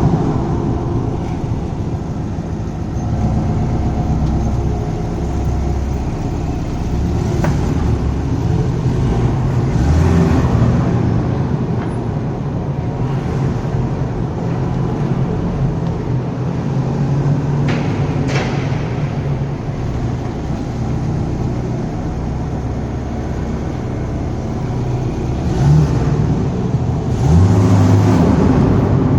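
Car engine running continuously, its pitch shifting, with a few louder swells, the strongest near the end.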